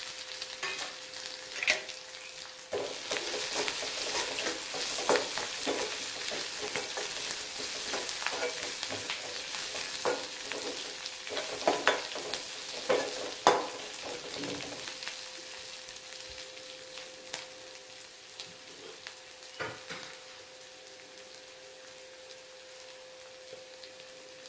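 Sliced onions and herbs sizzling in oil in a kadai, stirred with a metal spoon that clicks and scrapes against the pan through the first half. After that the sizzle goes on more quietly, with only the odd clink.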